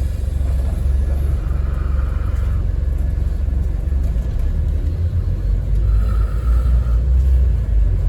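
Scania N230UD double-decker bus's diesel engine and running gear, heard from inside while the bus drives along: a deep steady rumble that grows a little louder about five seconds in. A faint high whine comes and goes twice.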